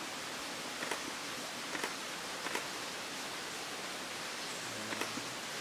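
A steady, even hiss with a few faint clicks spaced about a second apart and a brief low hum near the end.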